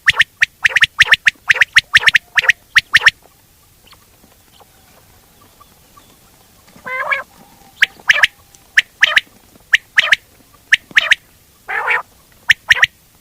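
Quail calling for hunting: a quick run of short, sharp calls, a pause of about four seconds, then more calls mixed with a few longer notes.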